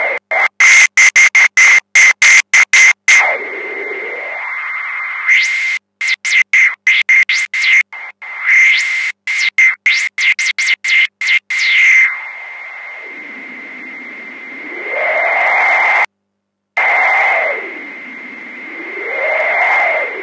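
Homemade wind-noise generator: white noise run through a swept filter, with a steady high whistle tone underneath. For the first half the hiss is rapidly chopped on and off. It then turns to slow rising and falling whooshes like gusts of wind, with a brief cut-out about two-thirds of the way through.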